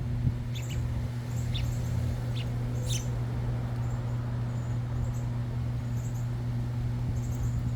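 Short, high bird chirps, several in the first three seconds and a few scattered after, over a steady low hum.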